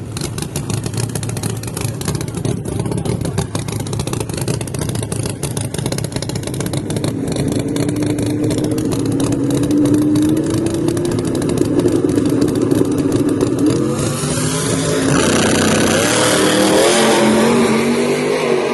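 Drag car engine running hard and loud. From about seven seconds in, its note climbs steadily in pitch, and it gets louder and brighter near the end as the car accelerates.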